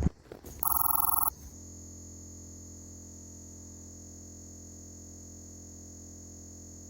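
A short electronic beep, then a steady synthesizer-like drone that holds one pitch until it cuts off.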